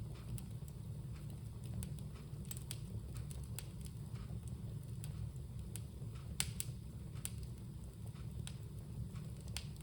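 Bonfire crackling: irregular sharp pops and snaps over a steady low rumble, with one louder pop about two-thirds of the way through.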